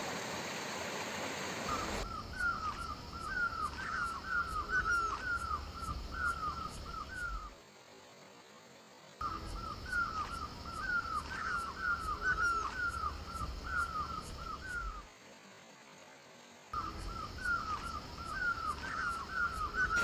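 A bird calling in rapid bouts of short, downward-sliding notes, several a second, each bout lasting about five seconds with brief pauses between them.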